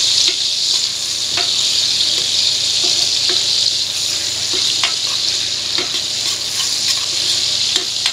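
Food frying in hot reused cooking oil in a pan: a steady loud sizzle, with a few light, irregular taps from the stirring utensil.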